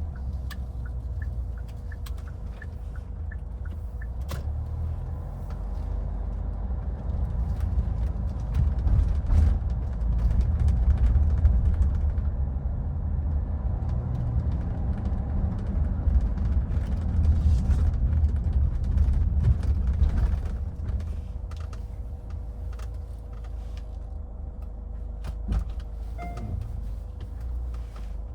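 2014 Hyundai Santa Fe driving in city traffic: a steady low rumble of engine and road noise, louder through the middle stretch and then easing off, with a few faint clicks.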